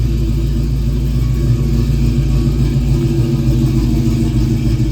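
1970 Ford Mustang's 347 stroker small-block V8 idling steadily, a deep even rumble.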